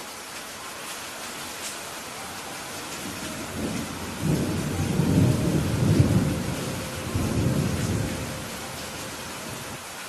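Steady rain hiss with a low rumble of thunder that builds a few seconds in, swells twice and fades before the end.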